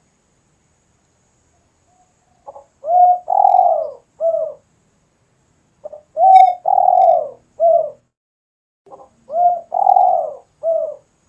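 Spotted dove (derkuku / tekukur) cooing: three phrases a few seconds apart, each a soft short lead-in note followed by a loud drawn-out coo and a shorter closing coo.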